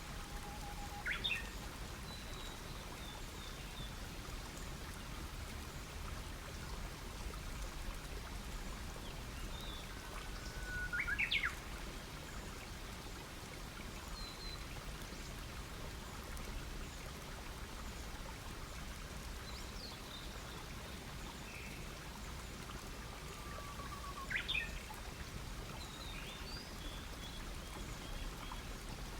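Campfire crackling steadily, with a bird singing three times, each song a held whistled note followed by a quick rising flourish.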